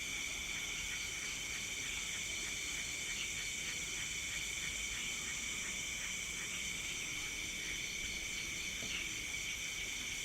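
Night insect chorus, crickets and the like, trilling steadily and high-pitched, with a quicker rhythmic chirping of about four pulses a second running through it that fades near the end.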